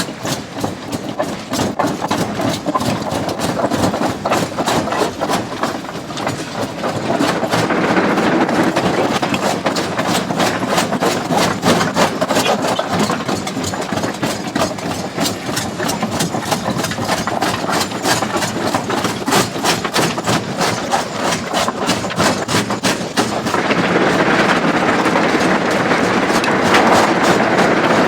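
Jaw crusher breaking big stones: a machine drone under constant clattering and knocking of rock, getting louder about seven seconds in and again near the end.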